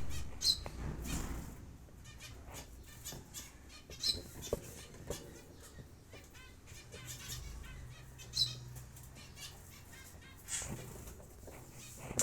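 Cockatiels in their cage: three short, sharp chirps about four seconds apart, with light scratching, rustling and wing movement between them.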